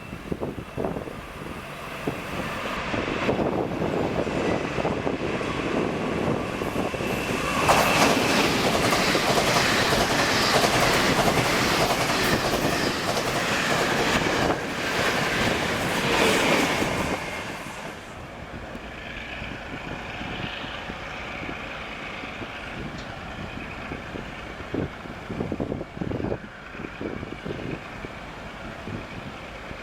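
A Taiwan Railway train passing close by. It builds over the first few seconds, is loudest for about ten seconds in the middle, then drops off sharply about eighteen seconds in, leaving a quieter steady rumble.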